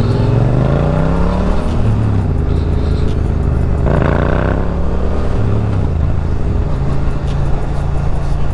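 Motorcycle engine accelerating through the gears. Its pitch rises and drops back at each upshift, then it settles to a steady cruise near the end, with constant wind rush.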